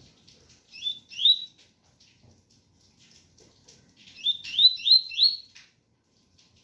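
Double-collared seedeater (coleiro) singing the 'tui-tui' song: two short rising whistled notes about a second in, then a run of four rising notes around four seconds in. Faint rain runs underneath.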